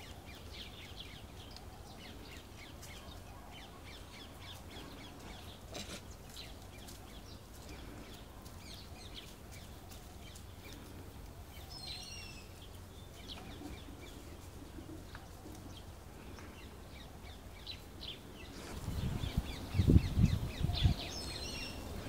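Scattered faint bird chirps over a steady low background hum, with a quick cluster of high chirps about halfway through. Near the end come loud, low thumps and rumbling.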